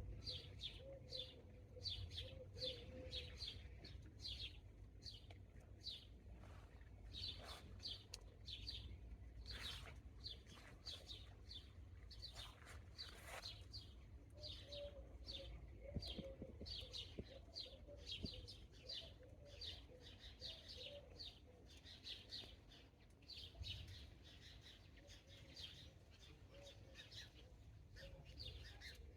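Small garden birds chirping faintly in quick, repeated high chirps, over a low steady background rumble.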